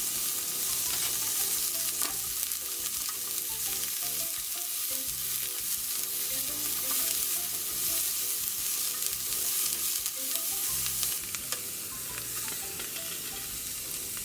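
Sliced pork belly sizzling in a hot frying pan, a steady hiss of fat frying, with a few light clicks from the pan or a stirring utensil.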